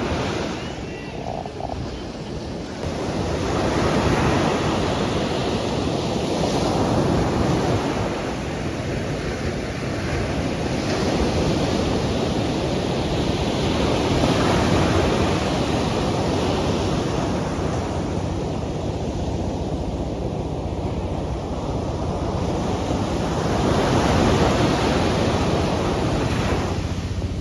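Sea surf washing onto a beach, swelling and easing every few seconds, with wind buffeting the microphone.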